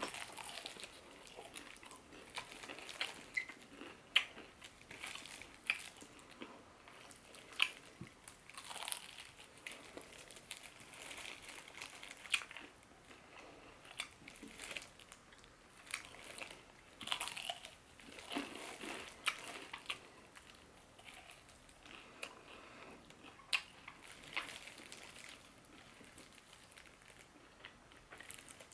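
Close-up chewing and biting of crispy fried chicken: irregular crunches and crackles of the fried batter, with wet mouth sounds between them.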